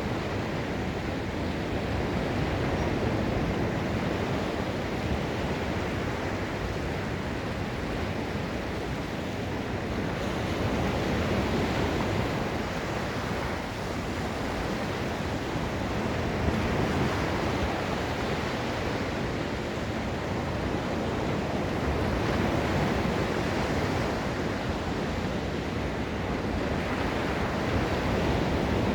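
Ocean surf on a Gulf of Mexico beach: waves breaking and washing up the shore in a continuous rush that swells and eases every few seconds. Some wind noise on the microphone.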